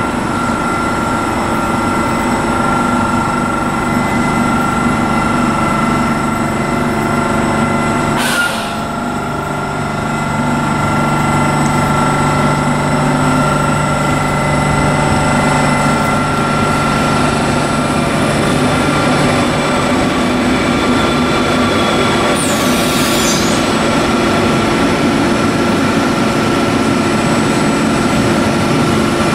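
Electric train running past on the line: steady rumble of wheels on rail with several even, high whining tones from the electric drive. The sound changes abruptly about eight seconds in, and a brief high-pitched squeal comes about twenty-three seconds in.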